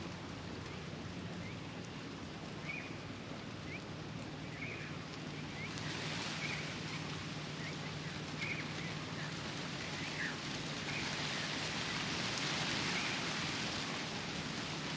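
Steady outdoor hiss like rain or wind in foliage that swells about six seconds in, with a short high chirp repeating roughly once a second and a faint steady low hum beneath.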